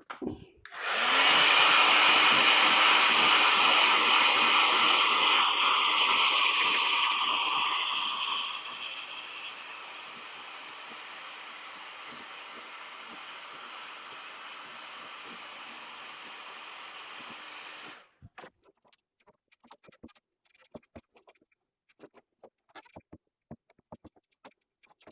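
Heat gun blowing hot air onto the deformed plastic bumper: it switches on about a second in, runs loudly as a steady rush, grows gradually quieter, then cuts off suddenly about three-quarters of the way through. A few light clicks and taps follow.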